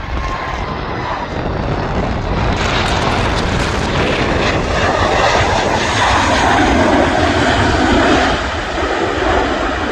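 Boeing 737 MAX jet airliner's CFM LEAP-1B engines, rising to a broad roar that is loudest about six to eight seconds in and then falls away. Wind is buffeting the microphone throughout.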